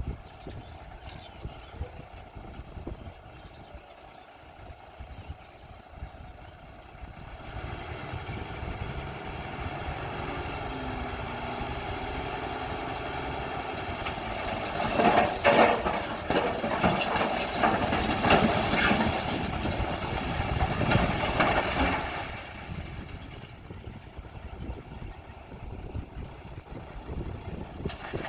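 Bulldozer's diesel engine running and working harder from about a quarter of the way in, with loud clattering and scraping from about the middle until three-quarters through as the blade works through rock.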